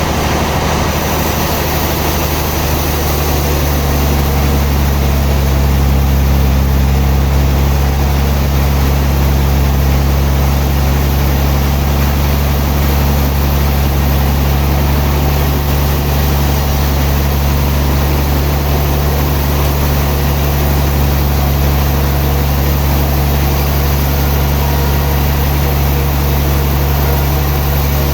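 Sawmill machinery running steadily: a continuous low motor drone with a noisy mechanical layer over it, a little louder after about four seconds.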